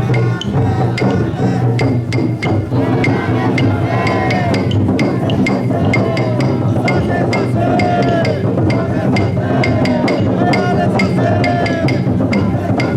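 Taiko-dai festival float's drum beating while a crowd of bearers chants in repeated rising-and-falling calls, about one a second, over a steady low din.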